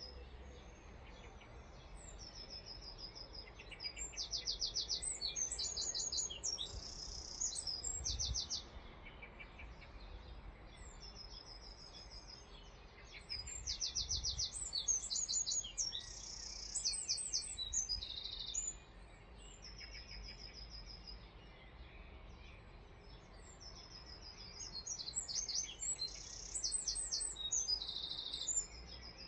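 A songbird singing the same long song three times, each a run of high whistles and rapid trills lasting about six seconds, with pauses of a few seconds between songs.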